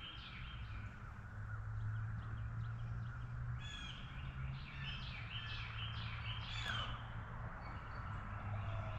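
A bird calling outdoors: a quick run of short, repeated calls about halfway through, over a steady low hum.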